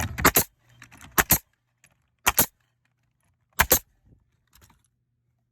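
Bostitch N66C coil siding nailer firing four nails into a replacement cedar shake. Each shot is a sharp double crack, and they come about a second apart.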